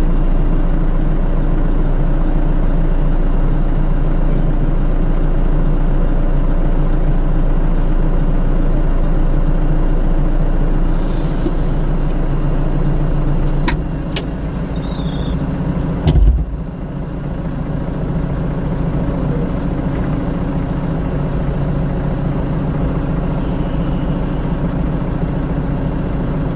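Heavy vehicle engine running steadily at idle, with a short hiss about eleven seconds in, a few sharp clicks just before a change in the engine's note, and one heavy thump about sixteen seconds in.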